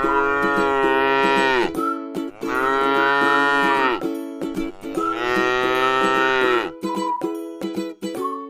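Cow mooing three times, each moo long and dropping in pitch as it ends, over background music.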